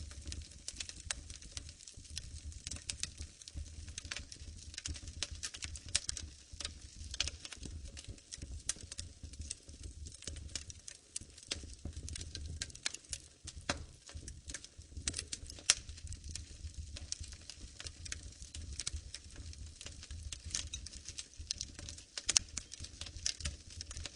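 Wood fire crackling in a fireplace: dense, irregular pops and snaps over a low steady rumble.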